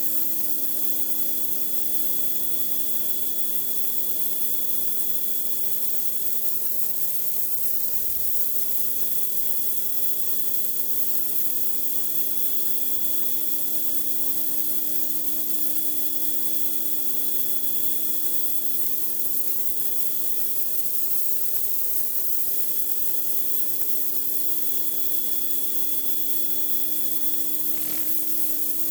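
Pressure washer running steadily: an even machine hum under the hiss of the high-pressure water spray on the concrete.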